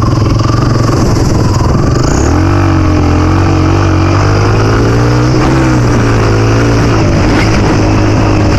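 Dirt bike engine running steadily, its note shifting a little in pitch as the throttle changes.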